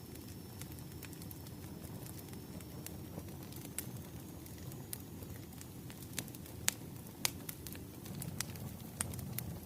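Bonfire burning: a steady low rumble of flames with scattered sharp crackles and pops of burning wood, two louder pops a little past the middle.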